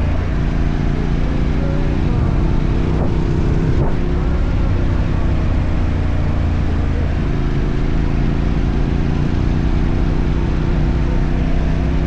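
Motorcycle engine running while riding, with rushing wind noise. The engine note shifts about two seconds in and again around seven seconds.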